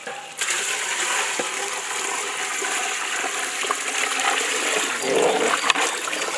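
Water pouring in a steady stream into a large cooking pot of chicken and masala, starting about half a second in.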